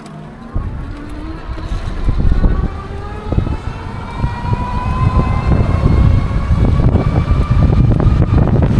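E-bike's electric hub motor whining, several tones rising slowly in pitch as the bike speeds up, over heavy wind buffeting the microphone that grows louder toward the end.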